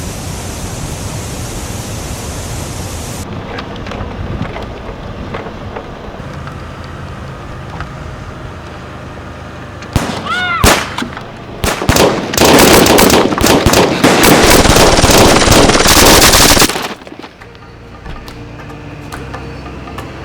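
Steady noise, then a very loud burst of rapid, continuous gunfire-style shots from about twelve seconds in, lasting about five seconds, with a few sharp gliding whistle-like tones just before it.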